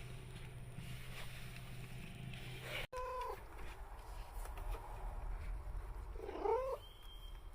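A cat meowing: a short call about three seconds in, then a louder meow near the end that rises and falls in pitch. A low steady hum runs under the first part.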